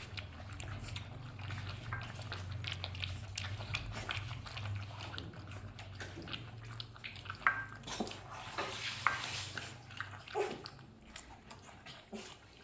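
Saint Bernard puppies lapping formula milk from bowls: quick irregular wet clicks and slurps, with a few louder knocks. A low steady hum underneath.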